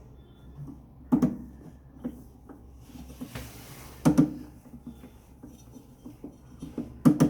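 Knocks and clatter of parts and tools being handled during repair work on a top-load washing machine, with three sharp knocks about one, four and seven seconds in.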